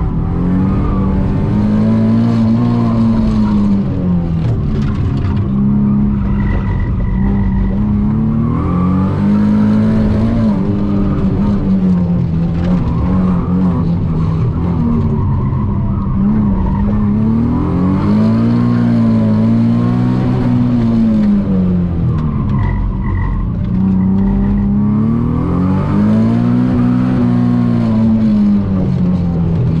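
Nissan 370Z NISMO's naturally aspirated 3.7-litre V6 running hard on track from inside the cabin, its pitch climbing under acceleration and dropping away for braking and downshifts several times over.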